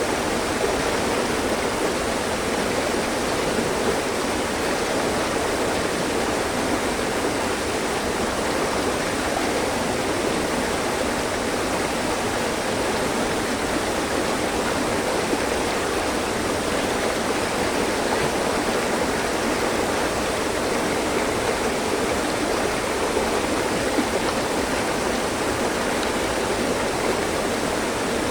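Mountain stream flowing over rocks: a steady, even rush and babble of water with no change throughout.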